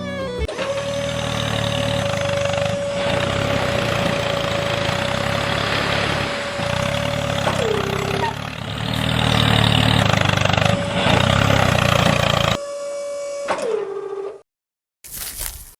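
A small motor or engine running steadily, with a constant whine over a low, pulsing rumble. The whine drops in pitch twice as it slows, and the sound cuts off shortly before the end.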